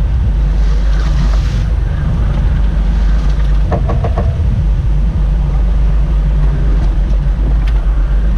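Fishing boat's engine running with a steady, deep drone, heard on board.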